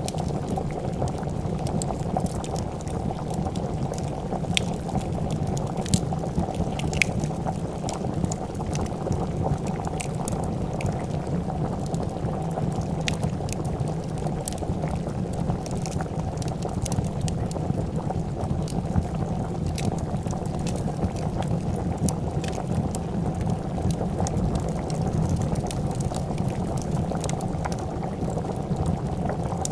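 Pot of soup bubbling at a steady boil, with scattered sharp pops and crackles of a fire over it.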